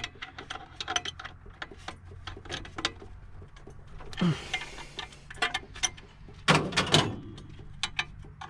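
A wrench working a bolt on a VW AP engine's belt tensioner: rapid, irregular metal clicks and ticks, with a short scrape about four seconds in and a few louder metal knocks around six and a half to seven seconds in, as the belt is being snugged up before final tightening.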